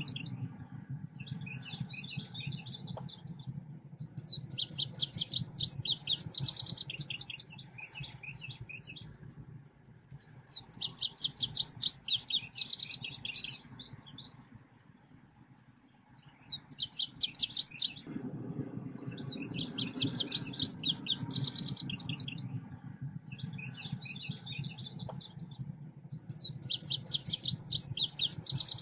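Song of the bird known in Indonesia as selendang biru, played as a lure and training recording: phrases of rapid, chattering high notes that come in bursts every few seconds, with a short pause about halfway through. A low hum runs underneath and gets louder after the pause.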